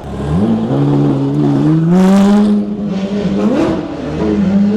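Motorcycle engine accelerating, its pitch climbing in steps, dipping briefly about three and a half seconds in, then rising again.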